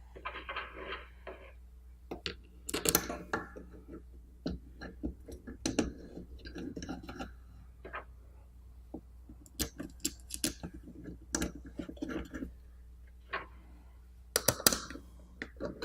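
Small screws being driven back into the faceplate of a portable gauging thermometer with a hand screwdriver: quiet, irregular clicks and short scrapes of metal and plastic, coming in clusters with brief pauses between.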